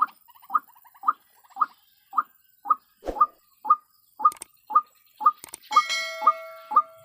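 White-breasted waterhen (ruak-ruak) calling, a short call repeated steadily about two times a second. A single thump comes about three seconds in, and a steady multi-note tone sounds over the calls for the last second or so.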